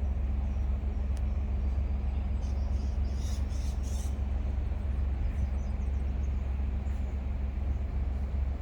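Steady low rumble of outdoor ambience, with a few faint bird chirps about three to four seconds in.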